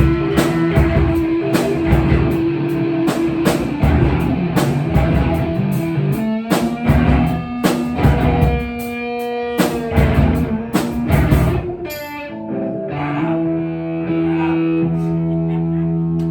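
Rock music with guitar and drum kit. The drum hits stop about twelve seconds in, leaving held guitar and bass notes ringing.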